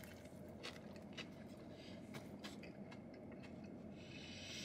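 Faint chewing of a mouthful of pretzel-bun chicken sandwich, with a few soft mouth clicks over a low steady hum.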